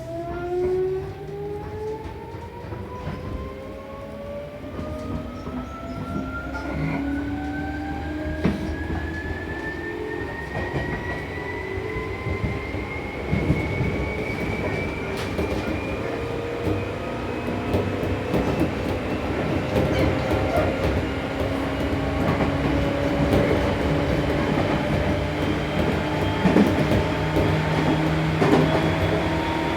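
Seibu New 2000 series electric train accelerating away from a station: its traction motors give a whine of several tones that rises steadily in pitch, over growing wheel-and-rail rumble with short knocks from the rails.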